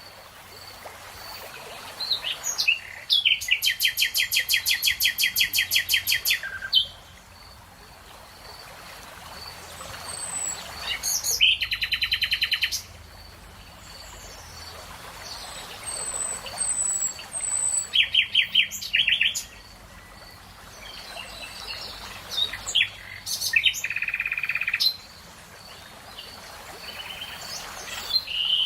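Birdsong: a songbird gives several trilled phrases of fast repeated notes, each lasting one to three seconds, a few seconds apart, over a soft background hiss and faint chirps.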